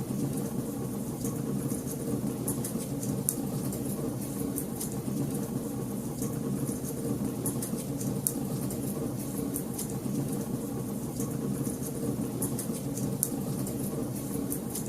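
Wood fire in a fireplace crackling, with frequent small sharp pops and snaps over a steady low rumble.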